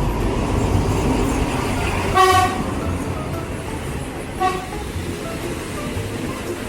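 Train horn sounding two short toots at a railway station, the first about two seconds in and louder and longer, the second about two seconds later and briefer, over a low rumble.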